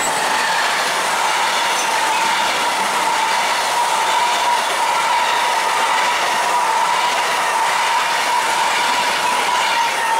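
Freight train of covered goods wagons rolling past at speed: the rush and rumble of steel wheels on rail, with a steady whining tone running through it. The last wagon passes near the end.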